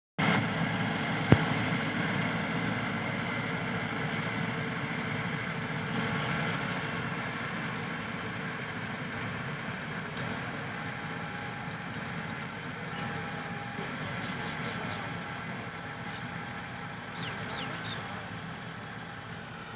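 Massey Ferguson 385 tractor's four-cylinder diesel engine running steadily and growing gradually fainter, with one sharp click about a second in.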